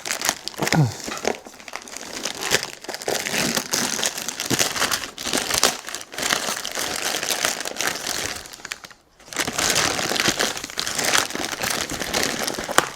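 Plastic packaging crinkling and rustling as it is handled, with a short pause about nine seconds in.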